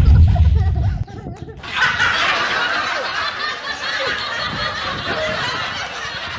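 A deep low boom dies away about a second in, then many voices laugh together for several seconds, stopping near the end.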